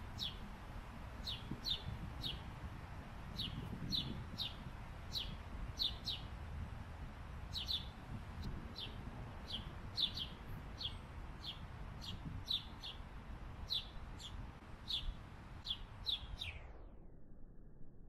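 A bird's short, sharp chip calls repeating irregularly, one or two a second, each dropping a little in pitch, over a steady low rumble. The chips cut off about a second before the end.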